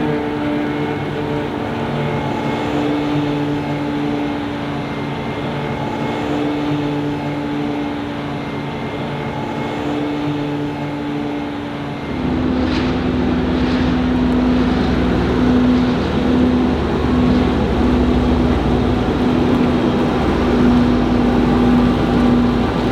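Large diesel farm machinery running steadily. About halfway through, the sound switches abruptly to a louder, deeper engine with a strong steady tone.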